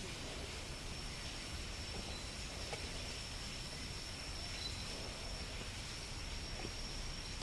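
Cicadas droning steadily in the trees, one even high-pitched tone over a hiss, with a low rumble underneath.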